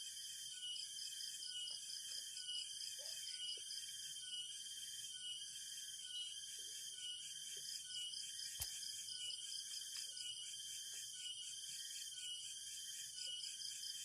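Dense rain-forest insect chorus of several high-pitched singers, some pulsing in an even rhythm of roughly three beats every two seconds. A single sharp click a little past halfway.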